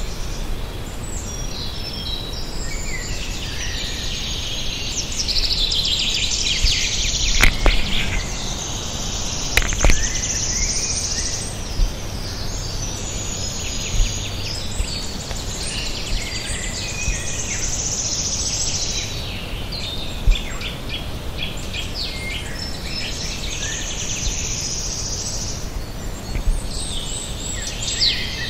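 Several songbirds singing at once, their overlapping phrases running without a break. A few short sharp knocks sound here and there.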